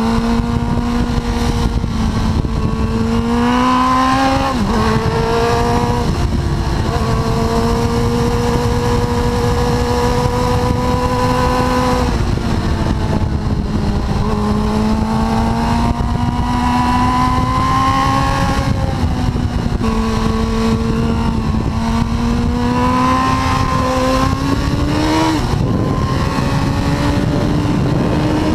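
Suzuki GSX-R1000 K4's inline-four engine heard from onboard at track speed, its pitch climbing slowly through long pulls and dropping sharply several times at gear changes or off the throttle. A steady rush of wind noise runs underneath.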